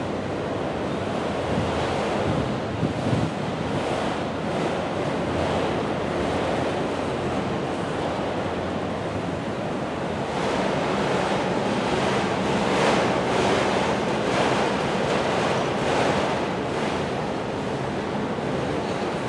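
A freight train of autorack cars rolling past, a steady rushing rumble of steel wheels on rail with wind on the microphone, a little louder and with some clatter from about halfway through.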